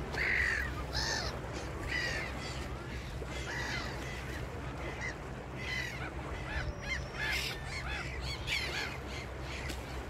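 Birds calling over and over in short, arching calls, several a second and overlapping, the loudest right at the start. A steady low rumble runs underneath.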